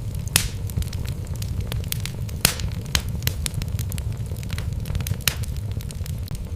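Wood fire burning in a fireplace: a steady low rumble of flames with irregular sharp crackles and pops from the burning logs, a few pops standing out louder than the rest.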